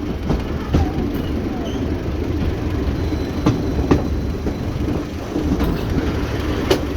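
Diesel multiple unit running along the track, heard through an open carriage window: a steady rumble of engine and wheels with a few sharp clicks of the wheels over rail joints.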